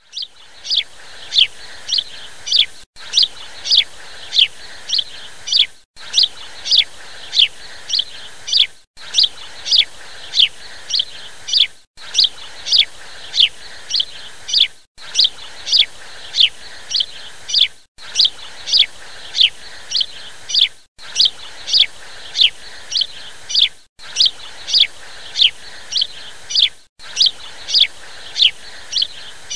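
Small bird chirping in high, downward-sliding notes, about two a second, from a short recording looped about every three seconds, with a brief dropout at each repeat.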